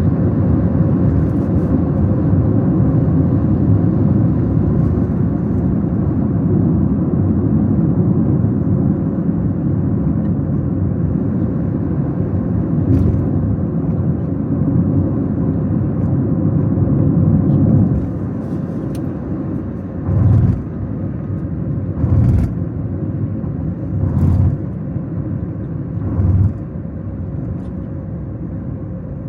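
A car on the move: a steady engine and road rumble that eases off about two-thirds of the way through, followed by four low thumps about two seconds apart.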